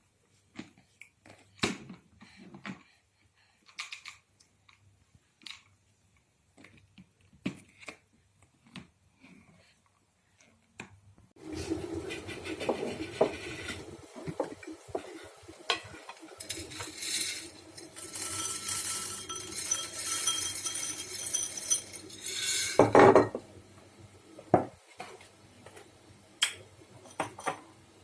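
Dishes, pots and cutlery being handled: scattered clinks and knocks, then about twelve seconds of steady rushing noise under more clattering, with a loud clatter near the end.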